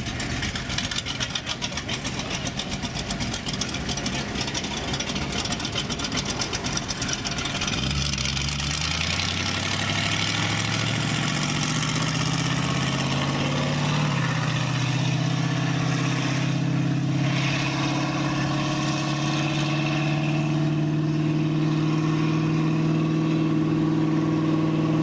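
Classic car engine running with a rapid, pulsing exhaust note. From about eight seconds in, an engine's pitch climbs steadily for several seconds as it pulls away, then holds at steady revs.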